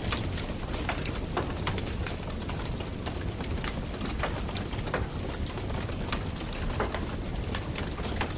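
Wood campfire crackling: irregular sharp snaps and pops, several a second, over a steady low rumble.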